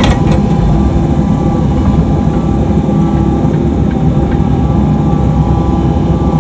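Excavator's diesel engine running steadily, heard from inside the cab, with a short click right at the start.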